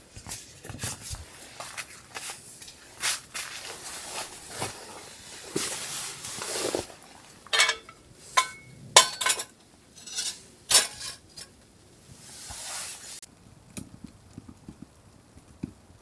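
Irregular clicks, knocks and light clinks of hard objects being handled, with a few sharper knocks and one brief ring near the middle, between soft rustling.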